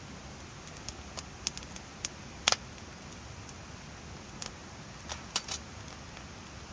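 Open wood fire crackling: irregular sharp pops and snaps over a steady low hiss, the loudest pops about two and a half seconds in and again a little past five seconds.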